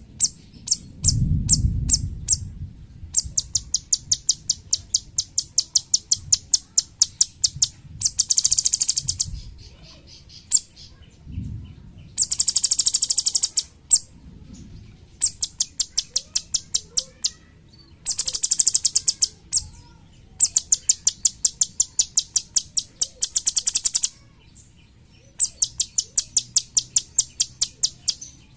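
Cucak cungkok singing its rapid-fire 'tembakan' song: phrases of sharp, high-pitched notes repeated several times a second, some running together into a fast buzzing trill, with short pauses between phrases. A low rumble is heard about a second in.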